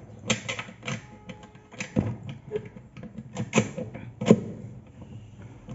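Irregular light metal clicks and knocks as long nails are worked through small holes in the side of a washing-machine part to lock it in place. The loudest knock comes about four seconds in.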